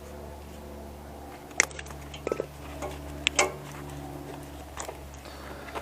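A few separate sharp clicks and clacks of small metal and plastic parts being handled and pulled apart during hand disassembly of server hardware, over a steady low hum.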